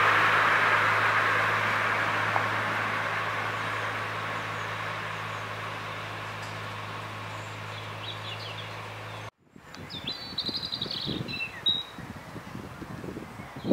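A miniature railway train running away along the track, its rumble fading steadily over a low hum. After a sudden cut about nine seconds in, a bird chirps a few times against wind and rustling.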